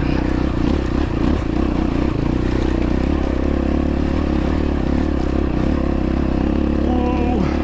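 X-Pro Templar X 250 dirt bike engine running steadily under load while climbing a rocky hill, with scattered clatter from the tyres on loose rock.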